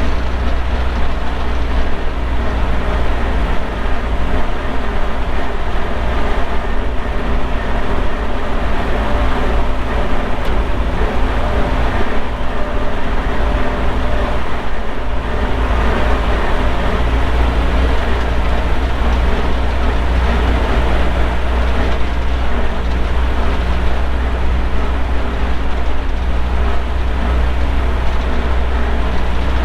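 Vintage tractor engine running steadily at a constant speed, with a strong low rumble.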